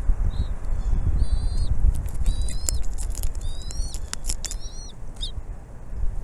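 Bald eagles calling: a run of about six high, thin chirping calls, several of them rising in pitch, over a steady low rumble with scattered sharp clicks.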